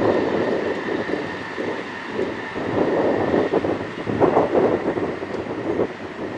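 A JR West electric train passing at speed on the Biwako Line, its wheels on the rails making a dense rushing noise that swells and eases several times as the cars go by, with a faint steady high tone.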